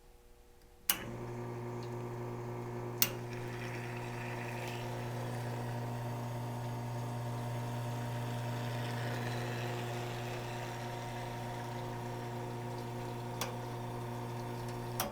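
Nuova Simonelli VFA Express two-group espresso machine's pump switching on with a click and running with a steady low hum and the hiss of water flowing for about fourteen seconds, then shutting off with a click. A couple of sharp clicks fall during the run.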